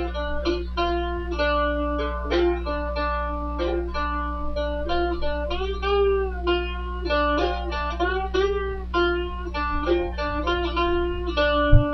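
A blues riff played with a slide on a plucked string instrument. It is a run of picked notes that slide up into pitch, jumping between a few fret positions, with a couple of longer swooping glides. A steady low hum runs underneath.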